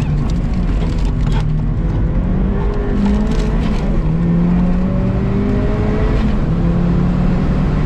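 Engine of a Mazda MX-5 with a 1.8-litre turbocharged four-cylinder, driven hard at racing pace and heard from inside the cabin. The engine note rises and falls several times as the revs change, over steady road noise.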